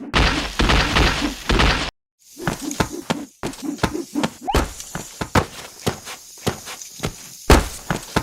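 A rapid, irregular string of dubbed impact sound effects: thunks, knocks and clatters, cut off abruptly to dead silence twice in the first few seconds.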